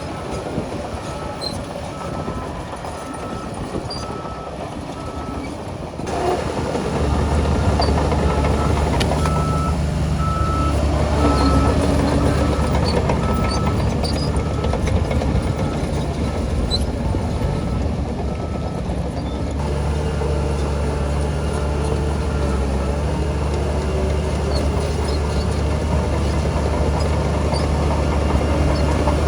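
Heavy diesel earthmoving machinery working, with a reversing alarm beeping at an even pace. About six seconds in, a diesel engine close by gets louder and runs hard with a steady low note; the beeping stops about two-thirds of the way through.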